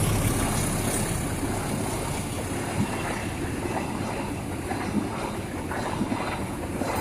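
Train running noise dying away over the first couple of seconds, then settling to a steady rumble with a few faint clicks.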